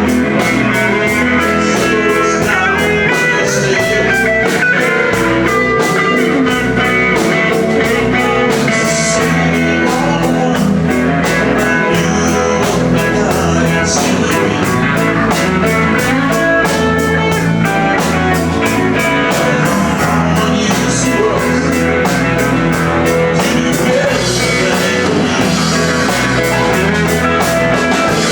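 Live band playing an instrumental passage: guitar over bass and drum kit, with a steady beat and a pulsing bass line.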